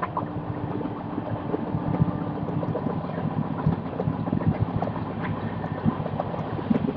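Ganga–Sutlej Express train running, heard from on board: a steady rumble with frequent small clicks and rattles.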